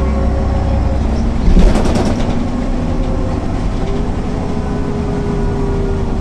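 MAN NL 262 city bus's diesel engine running under way, heard from on board, with a loud rattling knock about one and a half seconds in. A steady whine comes in about four seconds in.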